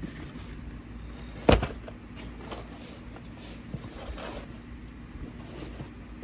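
A single sharp knock about a second and a half in, amid faint clicks and handling noises over a low steady hum.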